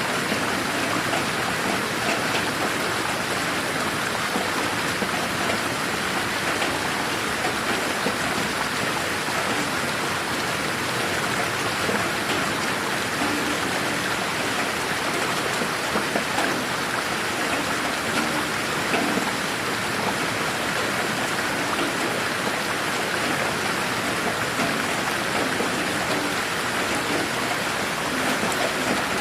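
Steady rain falling, an even hiss of many drops with the pattering of drops on surfaces.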